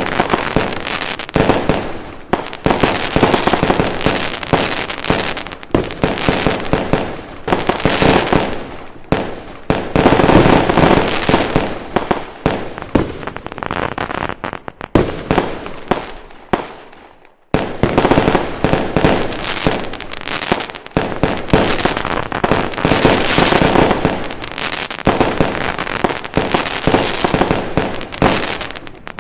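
Fireworks going off in a dense barrage of rapid bangs and crackling. The barrage fades out a little past the middle, then cuts back in suddenly at full strength.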